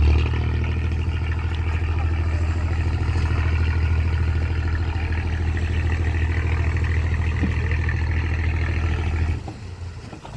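A boat's engine running steadily with a loud low hum, stopping abruptly near the end.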